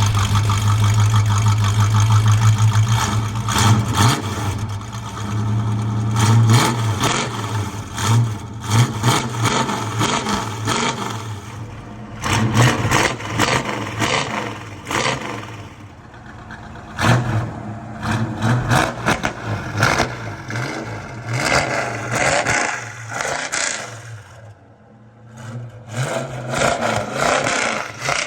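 Exhaust of a 1971 Chevrolet Monte Carlo V8 through a custom 2.25-inch dual system with an H-pipe and Borla ATAK mufflers, idling with a steady low drone for the first few seconds, then revved over and over in short blips.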